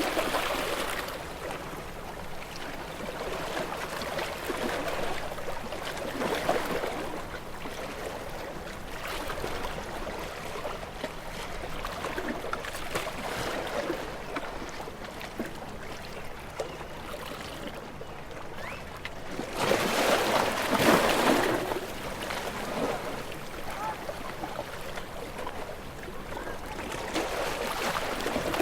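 Ocean waves washing in and drawing back in repeated swells every few seconds, with one bigger wave about two-thirds of the way through.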